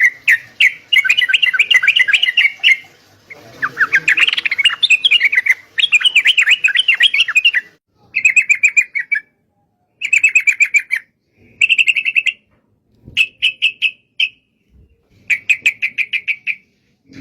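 Yellow-vented bulbul (trucukan) singing: about ten short, bubbly phrases of rapid chattering notes, each a second or two long, with brief pauses between them.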